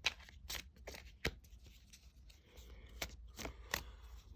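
Oracle card deck being shuffled by hand: a string of irregular sharp card snaps and rustles.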